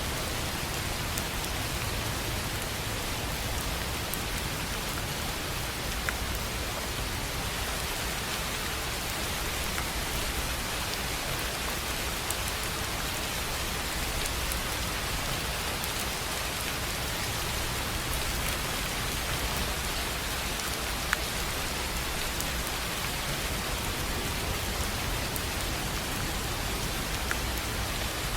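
Steady rain falling on a tin roof, an even hiss of drops with a few louder single drop ticks scattered through it.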